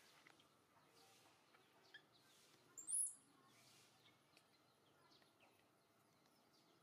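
Near silence with a single sharp, very high bird chirp about three seconds in and faint bird chirps scattered around it.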